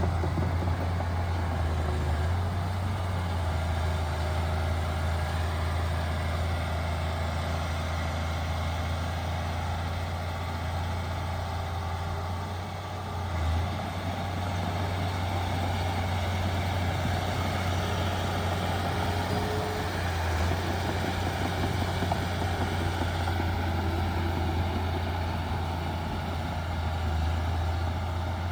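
Heavy diesel engine of earthmoving machinery running steadily with a deep low hum, its note changing briefly a few times.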